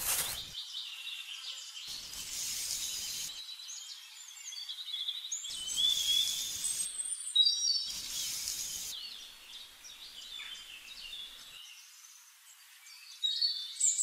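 Small birds chirping in the background, many short high chirps one after another, with a few short stretches of rustling noise in between.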